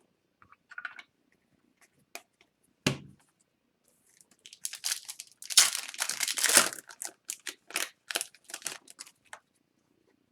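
A pack of Upper Deck Series 2 hockey cards being torn open, its wrapper crackling and crinkling for several seconds, after a few light clicks and a single knock about three seconds in.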